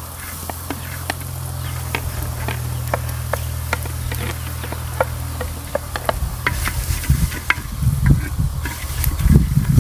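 Vegetables sizzling in oil in a clay pot over a wood fire, with many sharp crackles and pops and the sound of stirring. A steady low rumble underneath turns heavier and uneven in the last few seconds.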